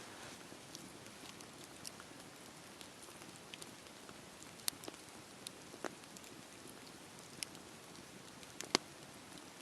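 Wood fire crackling: a steady low hiss of burning with irregular sharp pops and snaps, the loudest pop near the end.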